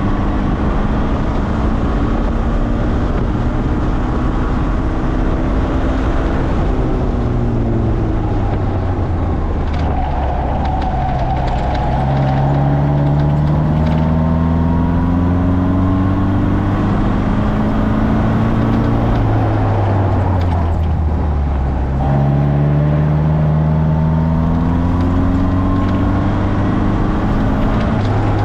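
Morgan sports car engine heard from on board, pulling hard with its note climbing steadily under acceleration. About two-thirds of the way in it drops away as the car slows, then picks up and climbs again.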